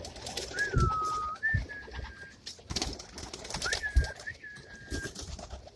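Racing homer pigeons cooing, with scattered taps and wing flutters in the loft. Two long, steady whistles sound, one near the start and one past the middle.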